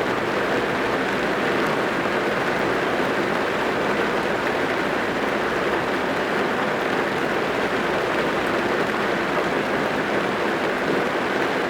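Rain falling steadily on a car, heard from inside the cabin: an even, unbroken hiss of drops.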